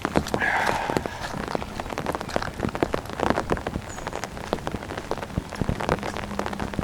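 Heavy rain falling, with many close raindrops ticking irregularly on surfaces.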